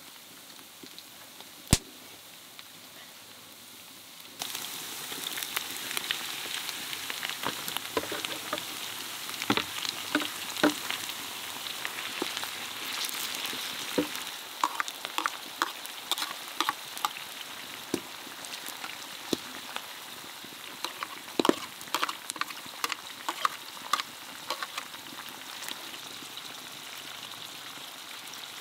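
Food frying in a hot pan: a dense sizzle full of crackles and pops starts suddenly about four seconds in and continues, easing a little about halfway. It is preceded by a single sharp knock just under two seconds in.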